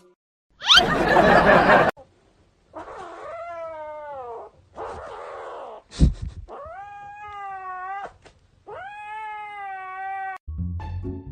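A cat yowling: four long drawn-out calls, each bending in pitch, after a loud noisy burst about a second in. Light music comes in near the end.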